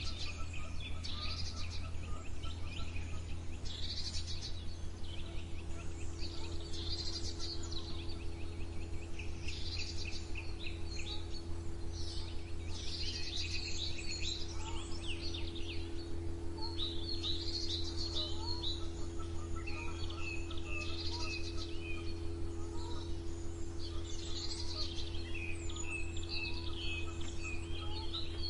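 Songbirds singing short, chirping song phrases, one after another every second or two, over a steady low hum.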